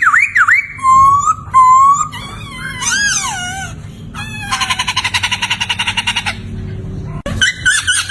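Poksay laughingthrush singing: a loud, varied series of swooping whistled notes, a buzzy rattling trill about halfway through, then a fresh phrase of quick up-and-down whistles near the end.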